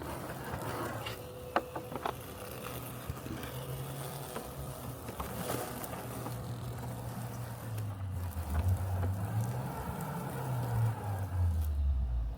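Robotic lawn mower running with a steady low mechanical hum that wavers in pitch, dropping lower and getting louder near the end. A few sharp ticks sound about two seconds in.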